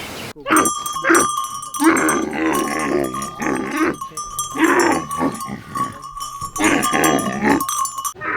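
Animal calls: a series of wavering, pitched cries in several bouts, over a steady high ringing tone.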